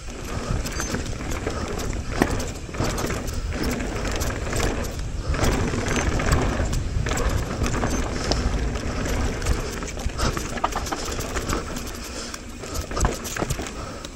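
Mountain bike clattering down a rough trail: tyres rolling over dirt and rocks, with frequent knocks and rattles from the bike over the bumps, and wind buffeting the helmet-mounted microphone.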